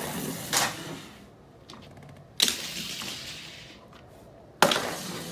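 LEGO cars colliding on a derby track: a few sharp plastic knocks, each fading out in a clatter of rattling bricks. The hardest come about two and a half seconds in and near the end.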